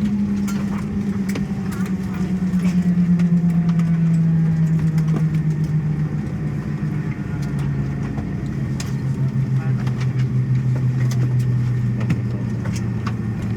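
Airbus A320 jet engines spooling down after shutdown at the gate, heard from inside the cabin: a steady hum that slowly falls in pitch, with a faint pulsing and scattered small clicks.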